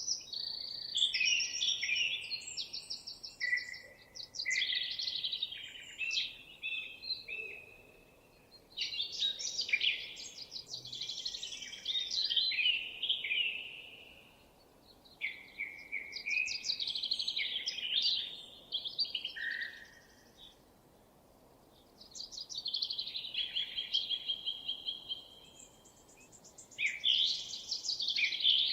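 Songbird singing long, varied phrases of rapid trills and chirps, each lasting a few seconds, with short pauses between them.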